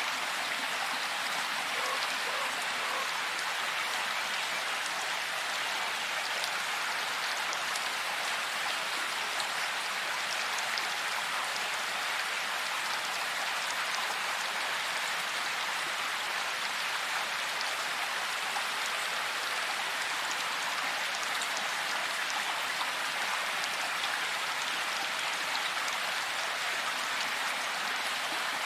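Steady rain falling in a forest: an even hiss of rainfall with scattered taps of individual drops.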